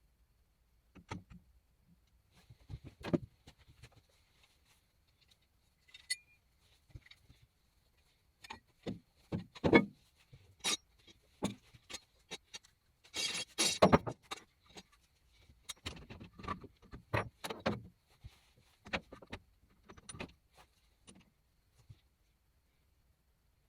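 Scattered clinks, knocks and rattles of metal tools and parts being handled, with a brief jingling rattle about halfway through; the lathe is not running.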